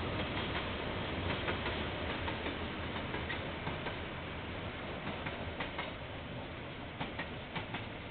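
KiwiRail container freight train passing: a steady rumble with wheels clicking irregularly over the rail joints as the container wagons roll by, the clicks coming more often in the second half.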